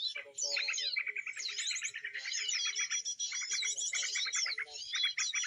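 Dense, unbroken chirping and trilling of small songbirds, a prenjak call played from an MP3 recording as a lure to draw the birds to the snare.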